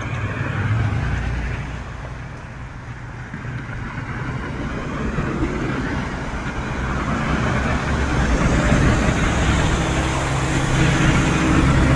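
Road traffic: cars and trucks driving past with engine hum and tyre noise, swelling as vehicles pass and growing loudest in the last few seconds.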